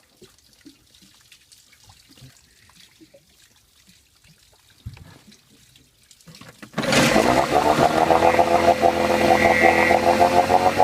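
A few faint clicks, then about two-thirds of the way through a 15 horsepower outboard motor starts suddenly and runs steadily.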